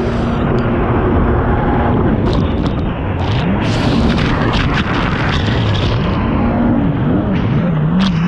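Jet ski engine running hard, its pitch rising and falling again and again as the throttle is worked, over loud rushing water and wind. The ski is new and still being broken in, about an hour on it, now being opened up.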